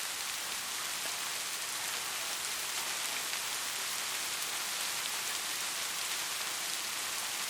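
Steady rain falling: an even hiss, strongest in the high end, with a few faint ticks of single drops.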